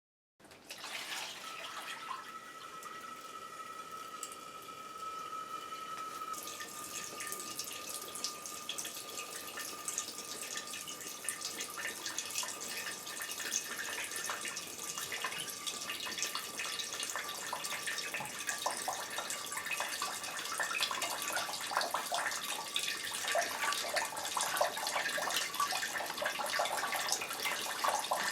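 Water falling in streams of drops through a Kelvin water-drop generator, a dense patter of drips that grows busier as it goes on. A faint steady high tone runs underneath for most of it.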